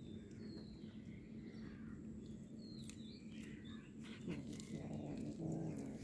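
Small birds chirping in short, scattered high calls. From about four seconds in, a low, drawn-out pitched sound joins them.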